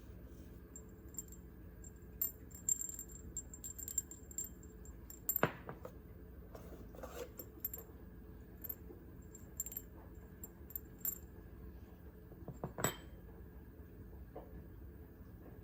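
Light clinking and tapping of small hard objects, like glassware or dishes being handled, with two louder knocks, one about five seconds in and one near thirteen seconds.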